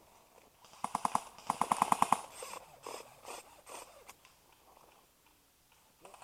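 Airsoft gun firing two short full-auto bursts about a second in, the second longer, at roughly a dozen shots a second, followed by a few scattered single clicks.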